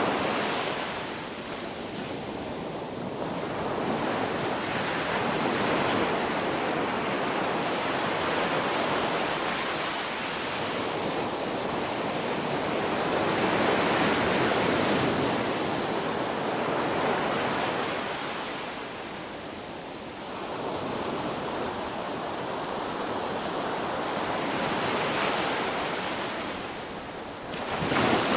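Ocean surf: waves breaking and washing up the beach in slow, continuous swells, rising and falling every several seconds, with one sharper crash near the end.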